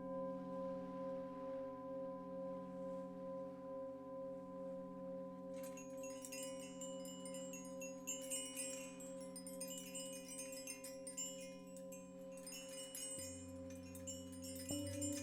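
Singing bowls ringing on with a slow wavering pulse, struck again near the end with lower, stronger tones. From about six seconds in, a set of chimes tinkles lightly high above them.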